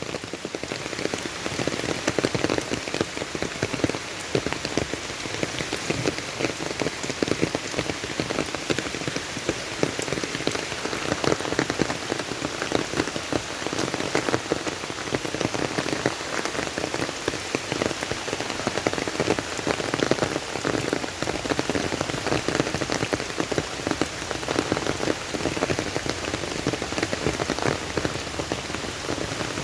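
Steady rain falling, a dense patter of individual drops hitting surfaces with no let-up.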